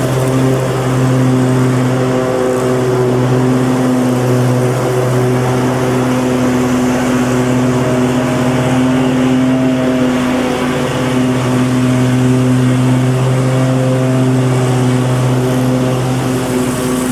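Lawn mower engine running steadily at a constant speed, its even drone wavering slightly in strength.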